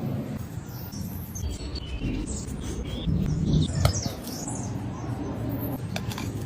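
Small birds chirping, many short high calls scattered through, over a steady low background rumble.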